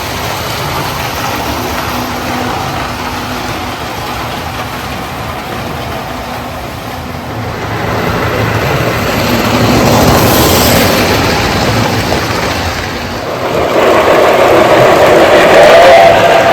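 Toy electric train running on a layout: the locomotive's motor and the wheels rolling over the track. The sound swells as the train draws near about eight to eleven seconds in and grows louder again from about thirteen seconds, where a held tone comes in near the end.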